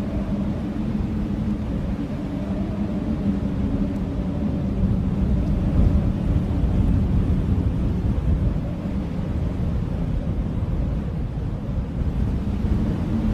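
Blizzard wind blowing in a steady, heavy rush with a low howl that eases off in the middle and swells again near the end.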